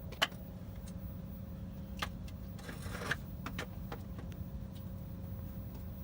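A few sharp clicks and a brief scrape over a steady low hum.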